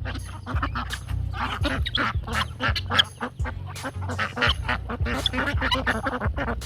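Domestic poultry calling in a busy run of short, quick calls, over background music with a steady low bass.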